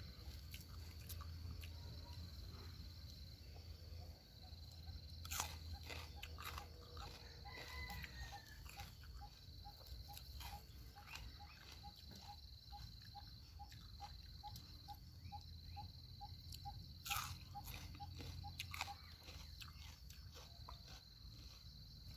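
Faint chewing of raw mini snack peppers: small crisp clicks and two louder crunchy bites, about five and seventeen seconds in. A steady high insect trill runs behind it.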